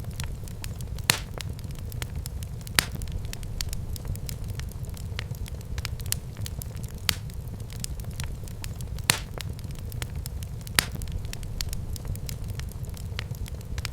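Wood fire burning in a fireplace: a steady low rumble of flames with scattered sharp crackles and pops at irregular intervals, a few standing out louder than the rest.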